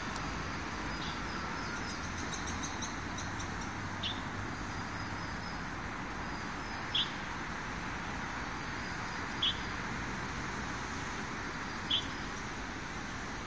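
A bird giving single short chirps about every two and a half seconds, with a quick run of faint high twitters about two seconds in, over a steady background hiss of outdoor noise.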